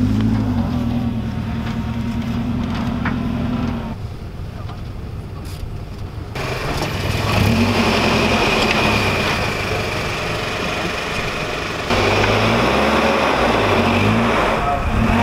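U-Haul rental truck engine revving repeatedly, its pitch rising and falling, as the truck tries to drive out of soft sand. A rushing noise sets in from about halfway through, and the sound changes abruptly a few times.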